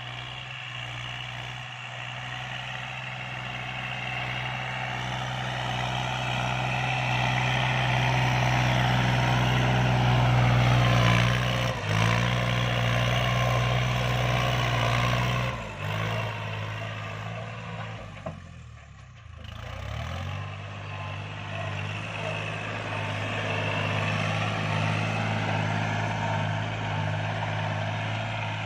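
Kubota L3218 tractor's three-cylinder diesel engine running steadily under load in second gear, driving a 183 cm rotary tiller through the PTO. The engine grows louder over the first ten seconds or so, drops sharply about sixteen seconds in, dips briefly a few seconds later, then runs steadily again.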